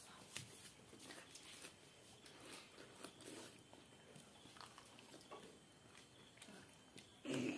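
Close-miked eating sounds of a person biting and chewing food, soft wet mouth clicks and smacks, with one louder mouth sound near the end.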